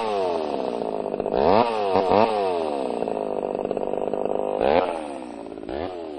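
Petrol chainsaw revving again and again, its pitch rising and falling with each blip of the throttle and running steadily in between. It is a little quieter near the end.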